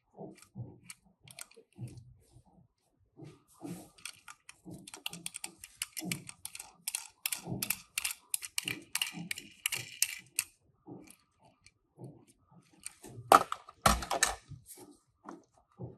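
Irregular small clicks, taps and rustles of die-cast Tomica toy cars and their cardboard and plastic packaging being handled, with a louder flurry of sharp clicks near the end.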